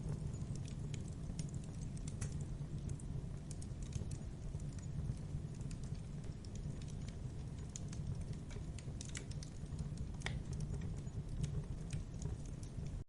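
Fireplace fire crackling: irregular sharp pops and snaps over a low steady rumble of flame, with one louder pop about ten seconds in.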